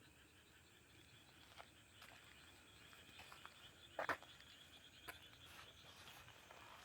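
Faint night chorus of crickets and other insects with frogs in rice fields, a steady pulsing trill. A few short sharp sounds stand out, the loudest about four seconds in.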